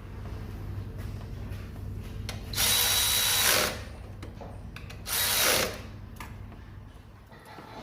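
Power drill or driver run in two short bursts, the first about a second long and the second about half as long, each winding down as the trigger is let go.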